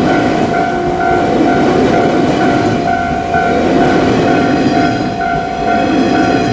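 JR 115 series electric train running past over a level crossing, its wheels rumbling on the rails. The crossing's electronic warning bell keeps ringing about twice a second over it.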